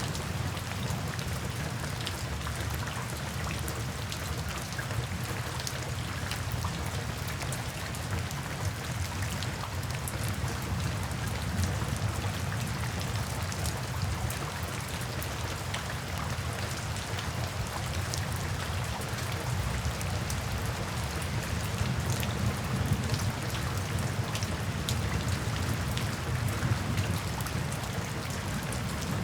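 Steady rain falling, with many individual drops ticking over an even hiss and a constant low rumble underneath.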